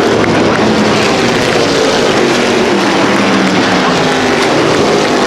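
Race cars running on the track: several engine notes overlapping and shifting in pitch in a loud, steady drone.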